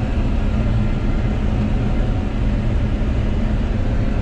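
John Deere 9760 combine running, a steady low drone with no change in pace.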